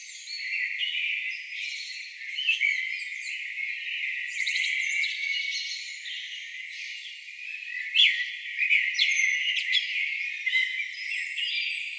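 Several songbirds singing at once, a dense chorus of short chirps, trills and whistles, with one sharp loud call about eight seconds in. The recording has its low end cut away, so only the high notes of the song are left.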